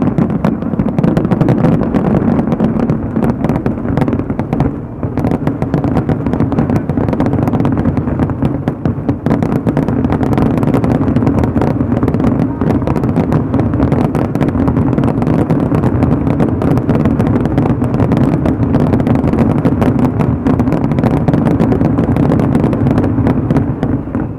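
Fireworks display: a continuous barrage of bangs and crackles following one another so quickly that they merge into a steady, loud low din.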